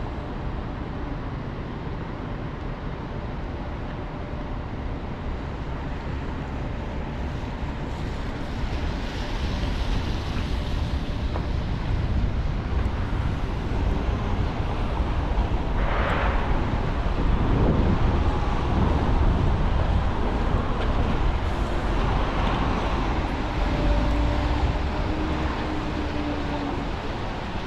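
City street traffic on wet roads: a steady rumble of vehicles that grows louder through the middle, with a short hiss about halfway through, as of tyres on wet pavement.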